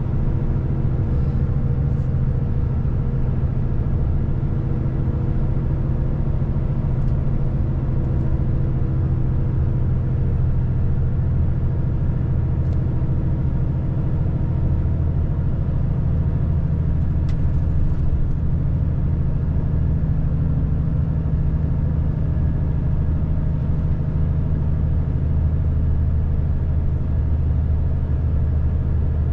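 Volvo FH540 truck's 13-litre inline-six diesel running steadily under way, a low engine drone that deepens about halfway through.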